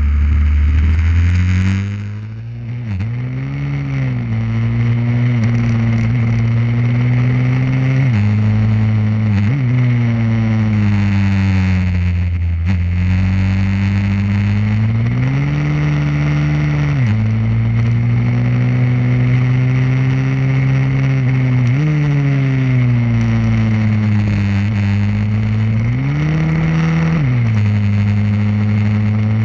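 Pit bike engine running hard on a track, rising and falling in pitch as it revs up, shifts and eases off for corners, with brief dips near 2 s, 3 s and 12 s.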